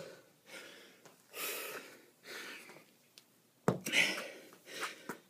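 A man breathing hard in short, hissing exhalations and gasps while straining through a kettlebell workout, with one sharp thump a little past halfway.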